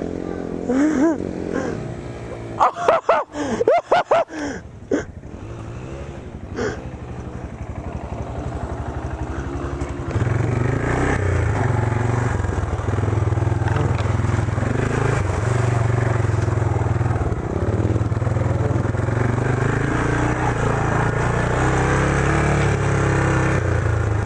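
Small off-road vehicle engine revving in the mud, with a few sharp crackling knocks about three to four seconds in. From about ten seconds in, the engine runs louder and steadier close by.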